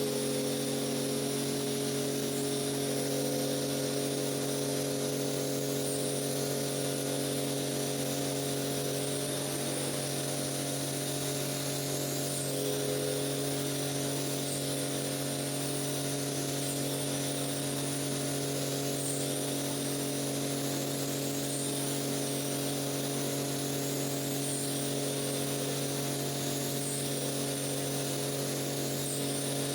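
An electric motor on rug-cleaning equipment running steadily: a constant hum with a hiss above it, no change in speed.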